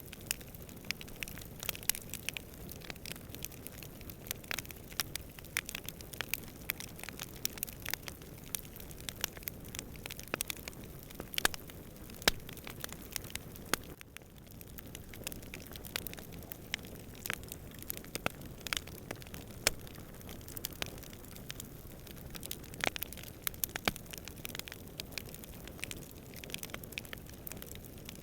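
Wood campfire crackling: many irregular sharp snaps and pops over a steady low rush, with a brief lull about halfway through.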